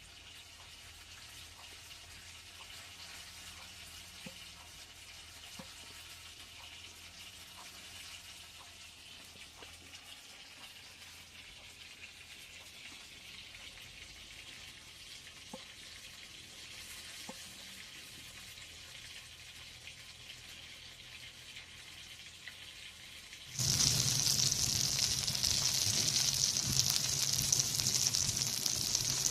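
Faint steady hiss with scattered small ticks, then, about 24 seconds in, a sudden loud sizzle as food hits hot oil in a pan and keeps frying.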